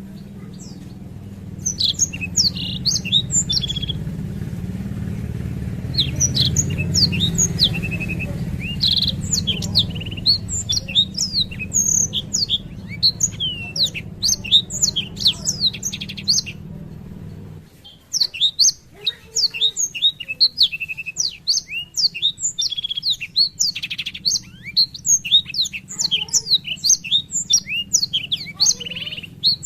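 Black-throated canary (blackthroat) singing a long, rapid twittering song in several runs of quick high chirps and trills, with brief pauses. A low hum underneath cuts off about two-thirds of the way through.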